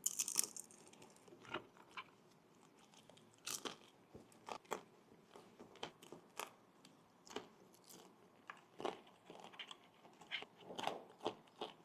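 A person biting into crispy pan-fried dumplings and chewing them: a loud crunchy bite at the start, then scattered crisp crunches as the chewing goes on.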